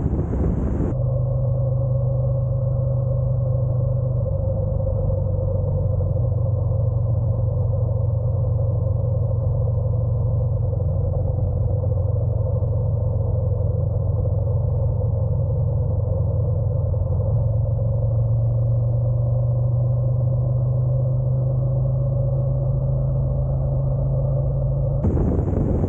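Honda NC750X motorcycle's parallel-twin engine running at a steady cruise, a muffled, even drone whose note shifts slightly a few times.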